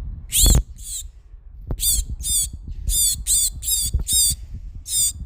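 A bird squawking, about nine short, harsh, high-pitched calls that waver in pitch, over a low rumble.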